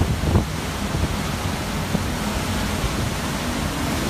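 Hurricane eyewall wind rushing steadily, buffeting the microphone, with a couple of brief bumps in the first half second.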